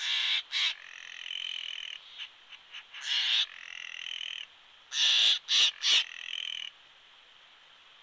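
A large bird calling close to the microphone: three bouts of loud, harsh calls, each followed by a steadier held call of up to about a second, stopping a little before the end.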